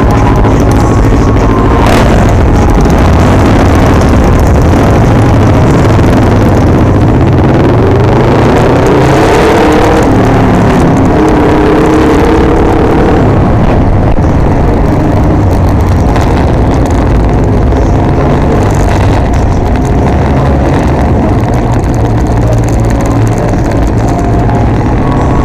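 Can-Am Ryker Rally 900 three-wheeler's three-cylinder Rotax engine and the motorcycles riding with it, running on the move as a steady engine drone. About a third of the way in, one engine's note rises in pitch as it accelerates, holds for a few seconds, then fades back into the drone.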